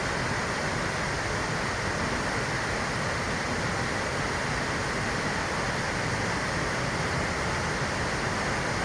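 Large fountain's water jets splashing down into its basin: a steady, even rush of falling water.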